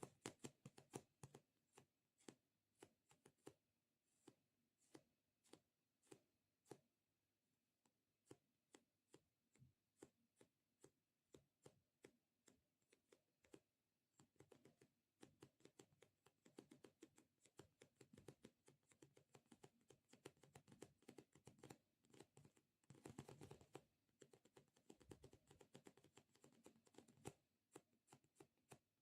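Close-miked ASMR object handling: quiet, crisp clicks and taps, spaced a little over once a second at first, then coming faster and denser from about halfway through.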